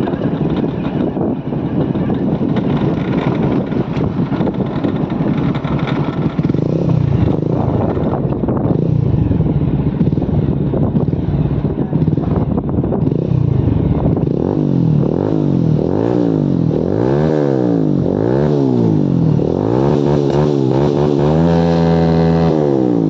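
Motorcycle engine running on the move with wind rushing over the microphone. From about two thirds in, the engine's pitch rises and falls repeatedly as the throttle is opened and closed, then holds steady near the end.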